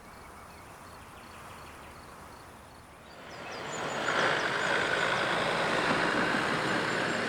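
A motor vehicle approaching: its steady noise swells from about three seconds in and holds, while small birds chirp.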